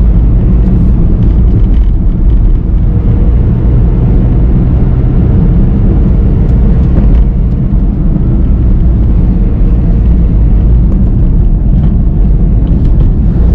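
Car driving along: a loud, steady low rumble of engine and road noise.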